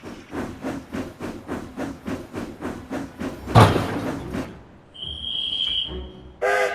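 Steam locomotive chuffing steadily, about four puffs a second, with one louder puff about three and a half seconds in. The puffing stops after about four and a half seconds, a short high whistle-like tone follows, and a steam whistle starts blowing near the end.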